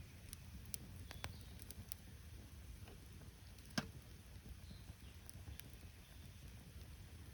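Wood campfire crackling faintly, with scattered sharp snaps and one louder pop a little before four seconds in, over a low steady rumble.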